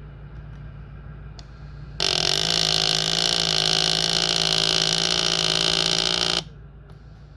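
Wahoo KICKR Direto smart trainer's motor grinding for about four seconds, starting and stopping abruptly, with a steady hum under the harsh noise. This is the grinding the motor makes as it gets stuck.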